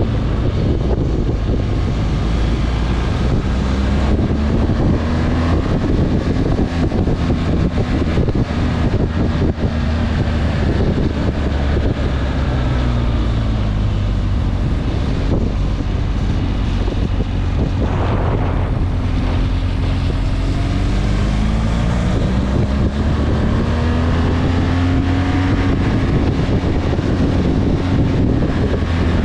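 Motorcycle engine running under way, its pitch rising and falling again and again with the throttle, over wind buffeting the microphone.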